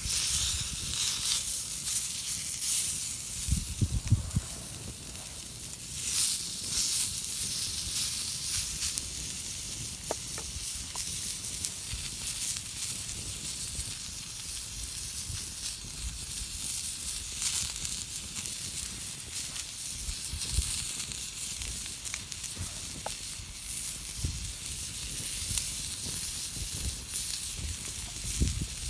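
Driftwood campfire burning with a steady hiss and scattered small crackles, with a few dull low thumps around four seconds in and again around twenty seconds in.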